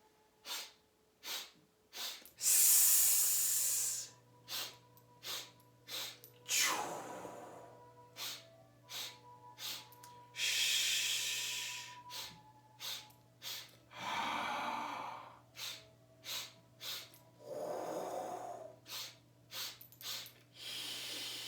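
A person doing qigong sipping breath: three quick sniffing in-breaths through the nose, about two-thirds of a second apart, then one long breathy exhale on a healing sound. The cycle repeats about five times, and each exhale sounds different, some a high hiss and others a lower whoosh.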